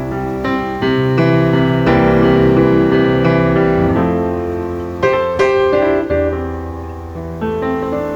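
Piano music: notes and chords struck and left to ring, a few changes of chord each second, with a louder run of notes about five seconds in.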